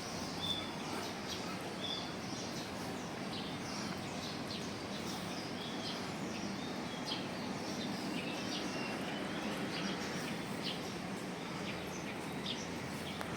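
Many small birds chirping, short high chirps and a few brief whistled notes scattered throughout, over a steady background noise.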